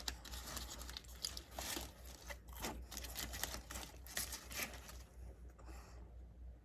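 Food packaging crinkling and rustling as it is handled and opened, in irregular crackles that die down about five seconds in, over a steady low hum.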